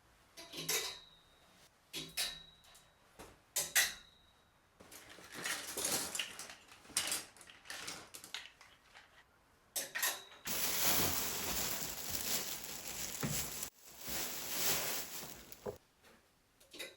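Household items being handled while a closet is put in order: four light clinks, each with a brief ring, then several seconds of steady rustling and scraping that stops abruptly.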